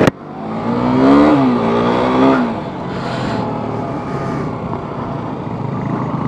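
KTM Duke motorcycle's single-cylinder engine accelerating away, its note rising, dipping briefly at a gear change, then rising again. About two and a half seconds in it eases off into a steady low hum with wind noise.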